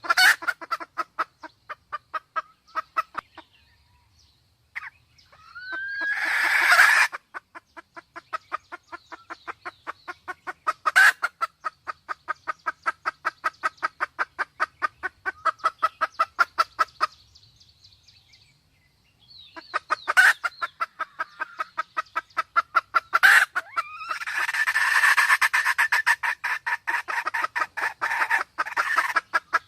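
Red junglefowl clucking in long rapid trains, about four or five clucks a second, pausing twice. Two louder, harsher bursts come in, one about six seconds in and one near the end.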